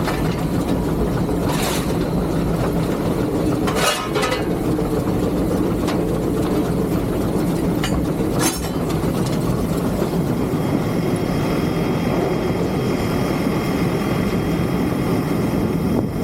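Three-truck Shay geared steam locomotive heard from inside its cab: a loud, steady rumble, with a few short, sharp noises at about two, four and eight seconds in.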